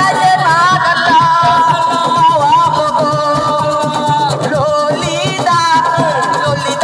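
Assiko band music: a voice singing wavering, gliding melodic lines over dense, steady percussion.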